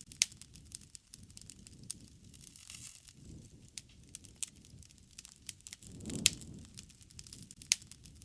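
Wood fire crackling: many irregular sharp snaps and pops over a soft low rustle of the flames that swells and fades every few seconds, strongest about six seconds in.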